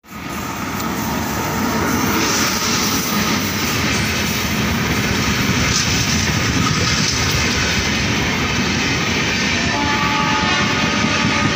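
Indian Railways express of LHB coaches, hauled by an electric locomotive, passing close at high speed: a loud, steady rumble and clatter of wheels on the rails.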